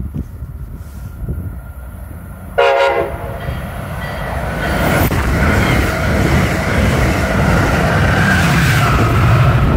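A train horn gives one short blast a little over two and a half seconds in, then the train comes on, the rumble of its wheels on the rails building and staying loud.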